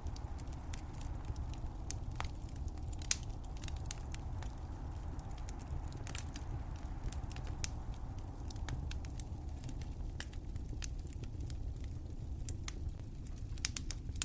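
Wood fire crackling: irregular sharp snaps and pops over a low, steady rumble, with a louder pop about three seconds in.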